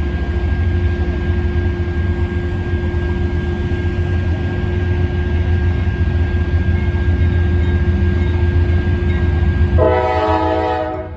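Train passing close by with a steady low rumble, its locomotive horn sounding once near the end.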